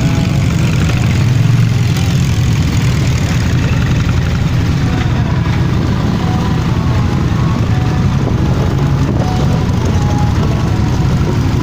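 Motorcycle engines running together, a loud, steady engine sound with no breaks.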